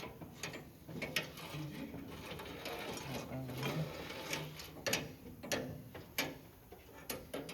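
Welder arc crackling and buzzing unevenly as a piece of metal is welded onto a go-kart frame, with a few sharp clicks.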